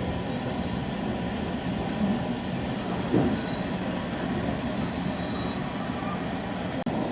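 Moving commuter rail coach: a steady rumble of wheels running on the track, with a brief louder sound about three seconds in and a short high hiss a little later.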